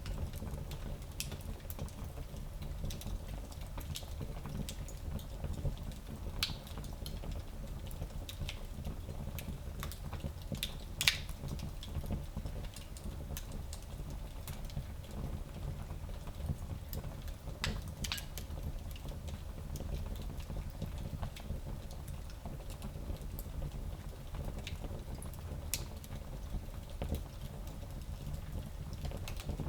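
Fire burning in a small fireplace: a steady low rumble of flames with scattered crackles and pops. The sharpest pop comes about eleven seconds in, another strong one around eighteen seconds.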